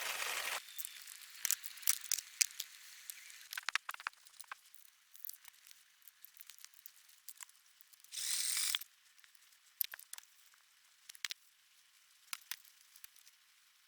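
Scattered light clicks and taps of small mechanical handling, with a short burst of hiss about eight seconds in. A steady noise cuts off suddenly just after the start.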